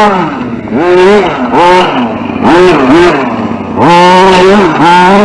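Radio-controlled short course truck's motor revving in repeated bursts, its whine rising and falling in pitch, with a longer, louder run near the end.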